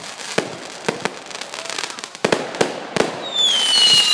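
Fireworks going off: a string of sharp, irregular bangs, then near the end a whistling firework starts up with a long whistle falling steadily in pitch.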